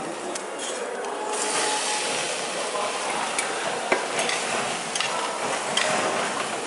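Chopped tomatoes frying in hot oil in a stainless steel pan, being stirred with a metal ladle. The sizzle jumps up sharply about a second and a half in as the tomatoes hit the oil, and the ladle clinks against the pan a few times.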